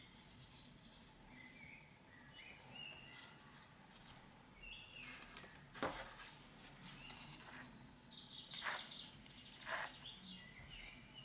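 Faint background of small birds chirping intermittently, with a few soft clicks from handling.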